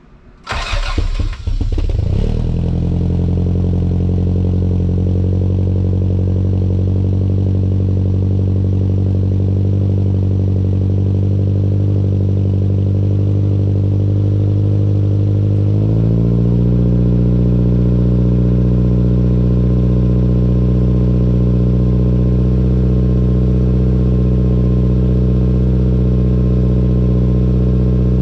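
Toyota MR2 SW20's inline four-cylinder engine starting: a brief uneven crank catches in the first couple of seconds, then the engine idles steadily. A little over halfway in, the idle shifts slightly and gets a bit louder.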